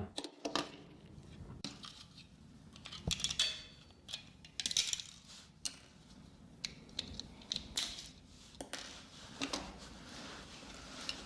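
Small metal parts of an aluminium door's lock and handle mechanism being handled and taken apart: light clicks, clinks and short scrapes in irregular clusters.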